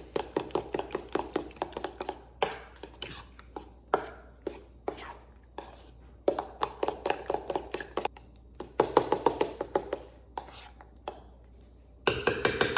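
A kitchen knife chopping food on a cutting board, in quick runs of about five or six strikes a second with short pauses between. Near the end there is a short, louder burst of steady noise.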